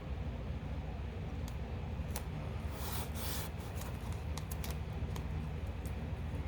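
Tape being handled and worked along the edge of a canvas: scattered small clicks and rustles, with a brief rustle about three seconds in, over a low steady hum.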